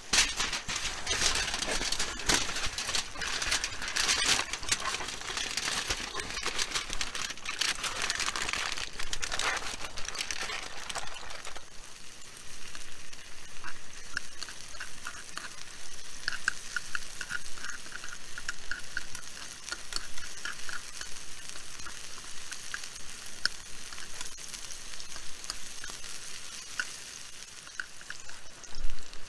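Food frying in a pan, a dense sizzle that is loud for about the first twelve seconds and then drops to a quieter crackle.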